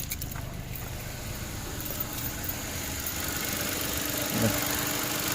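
Mitsubishi Mirage engine idling steadily, running normally now that a fouled, blackened spark plug has been replaced.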